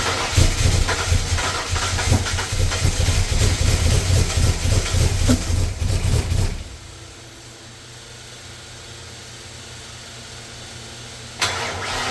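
Ford 351 Windsor small-block V8 running with a rapid low pulsing, which cuts off suddenly about six and a half seconds in, leaving a much quieter steady hum; the engine sound comes back abruptly near the end.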